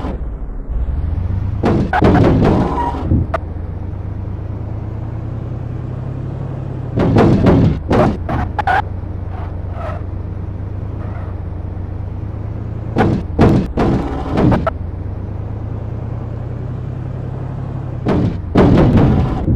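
Cars crossing a speed bump: a steady low engine hum broken about every five seconds by a cluster of loud thumps and knocks.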